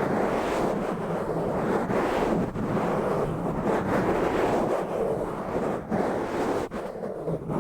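Fast, rough scratching and rubbing directly on an uncovered microphone, a dense continuous rasping noise with brief dips in its rhythm.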